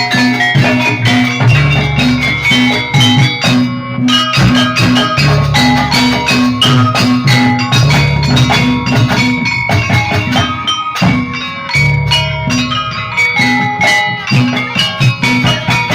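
Javanese gamelan music for a jaranan dance: metal mallet instruments playing quick repeating note patterns over drums.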